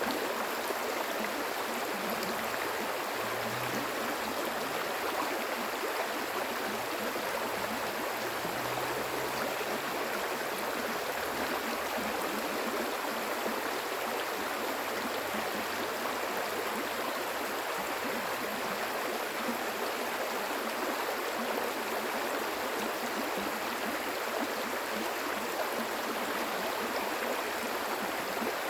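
Flowing water, a stream running steadily with an even, unbroken wash of noise.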